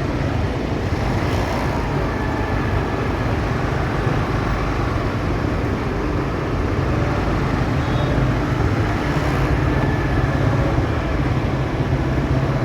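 Motorcycle on the move in city traffic: steady engine and road noise with the surrounding traffic, no distinct separate events.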